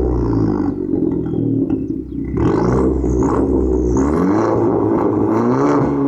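Alfa Romeo MiTo 1.4 turbo engine through a Supersprint high-flow cat-back exhaust, revving: the exhaust note drops over the first two seconds, then rises and falls with the revs several times.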